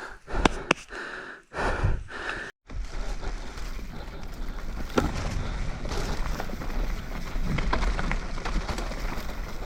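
A mountain bike rolling along a dirt trail: a steady low rumble of tyre and wind noise on the camera, with scattered clicks and knocks from the bike. It begins after a brief dropout a couple of seconds in; before that there are a few short rustling bursts.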